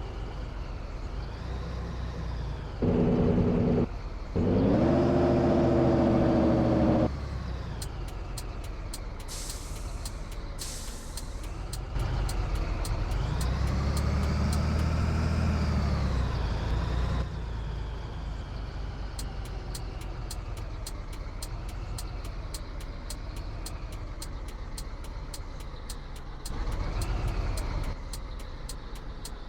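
Scania 113 truck's diesel engine running, with two loud, steady air-horn blasts near the start and short hisses of air a few seconds later. Around the middle the engine revs up and eases off, and from about two-thirds of the way on a fast, regular ticking runs over it.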